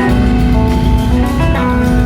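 A live blues-rock band playing loudly, with guitars over bass and drums.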